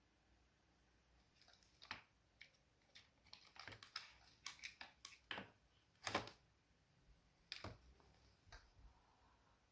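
Faint, irregular light clicks and taps on something hard, starting about a second in and stopping near the end.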